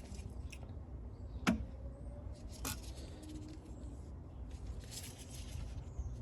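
Hands working the retaining clip out of a plastic coolant pipe fitting on a Volvo engine: faint scraping and handling noise, with a sharp click about a second and a half in and another a little over a second later.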